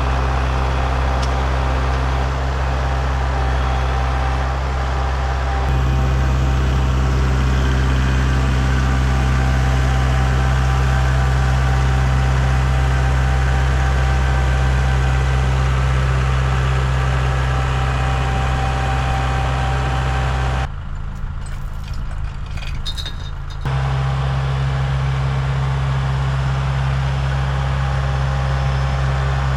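An engine running steadily at an even speed. About two-thirds of the way through it gives way for a few seconds to a quieter stretch with a few clicks, then the engine sound returns.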